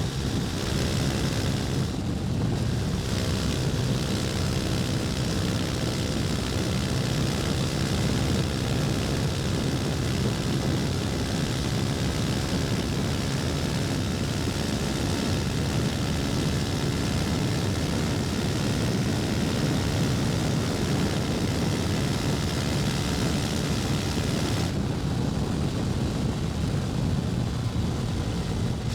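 KTM 250 Duke's single-cylinder engine running as the motorcycle rides along, with wind noise over it. The higher part of the sound drops away briefly about two seconds in and again for the last few seconds.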